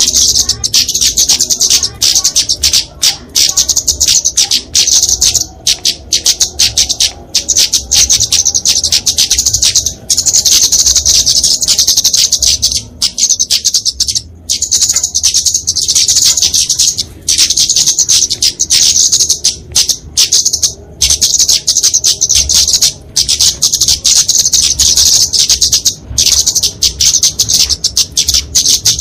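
Kemade flowerpecker giving its fighting song: a loud, dense stream of very high-pitched rapid chirps and twitters that runs almost without a break, with short pauses every second or two.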